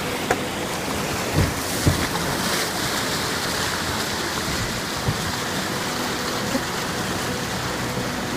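Steady rushing of white water as a canoe runs a river rapid, with two dull knocks about a second and a half in.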